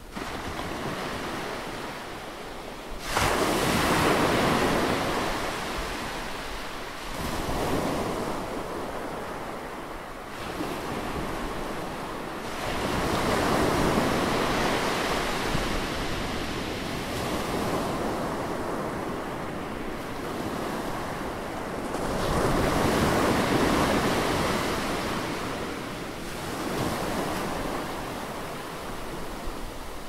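Ocean waves breaking and washing up the shore, the surf swelling and falling back every few seconds, loudest in surges about three seconds in and again a little past twenty seconds.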